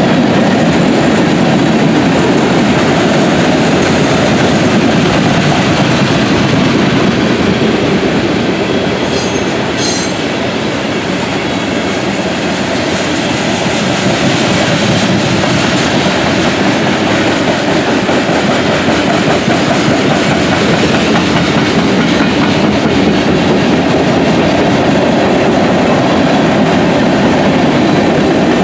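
Freight train cars rolling past, wheels clacking steadily over the rail joints, with a brief high wheel squeal about ten seconds in.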